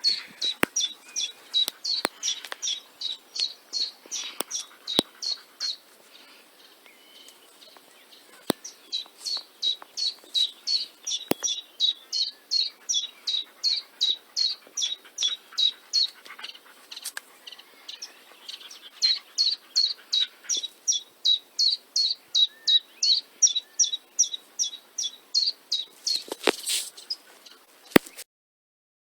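A songbird repeating a short, high chirp over and over at about three to four notes a second, in long runs broken by pauses of a few seconds.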